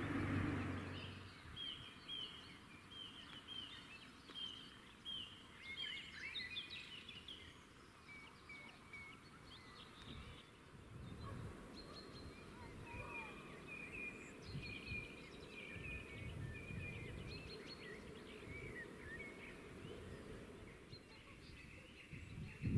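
Wild birds singing: repeated high chirps and trills over a low, steady outdoor background noise, after a louder low rumble dies away in the first second.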